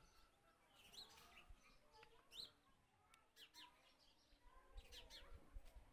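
Faint birds chirping: a few short calls scattered over near silence.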